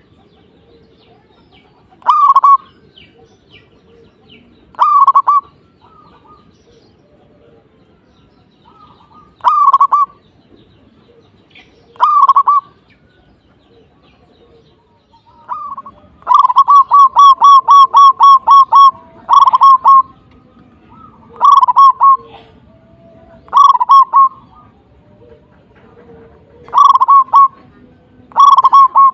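Zebra dove (perkutut) cooing close up: loud, short coo phrases every two to three seconds, and about sixteen seconds in a longer run of rapid, even notes, about four a second.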